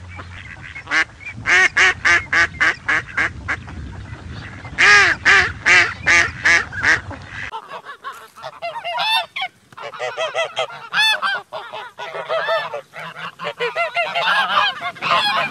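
Domestic geese honking: a fast run of repeated honks, about three a second, louder in a burst about five seconds in. After a cut, a second group of geese calls in less regular honks of varied pitch.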